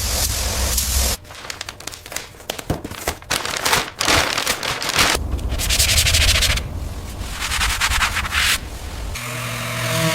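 Workshop noises on a car body: a steady hiss, then scraping and rubbing with sharp ticks, then further bursts of hiss. Music comes in near the end.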